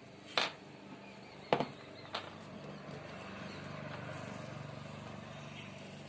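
Three sharp clicks or taps in the first two seconds, then a low steady hum that swells and slowly fades.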